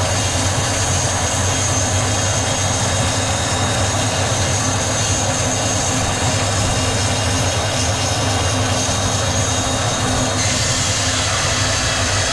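Sawmill machinery running steadily: a loud, constant mechanical drone with a low hum and a thin high whine, whose upper tones shift slightly about ten seconds in.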